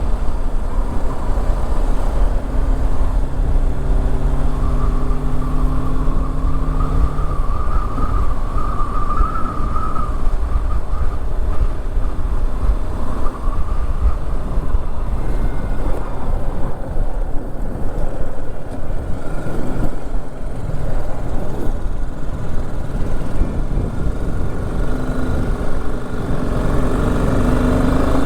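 Motorcycle engine running steadily under way, with heavy wind rumble across the rider's microphone. A clear engine tone holds for the first several seconds, then drops away about seven seconds in.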